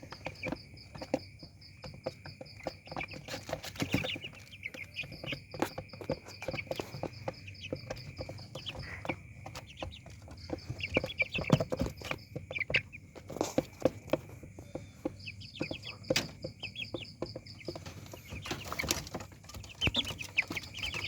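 Month-old chicks peeping and cheeping in short high calls, with scattered sharp taps and knocks. A rapid high pulsing trill runs on and off in stretches of a few seconds behind them.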